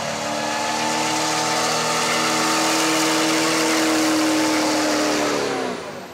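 Loud vehicle drone held at one steady pitch for several seconds, then dropping in pitch and fading away near the end.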